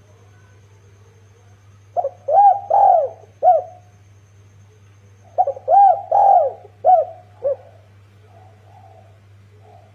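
Spotted dove cooing: two phrases of several arched coos, the first about two seconds in and the second a little past halfway, over a faint steady low hum.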